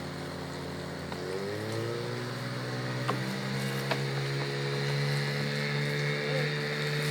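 Motorboat engine running, rising in pitch about a second and a half in as it speeds up, then holding a steady note and growing slightly louder.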